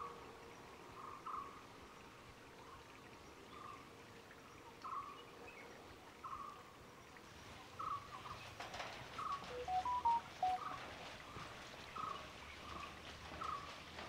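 Forest birdsong: a bird repeating a short, slightly rising call about once a second, with a few brief clear whistled notes, the loudest sounds, just past the middle. From about halfway a faint crackling haze joins in.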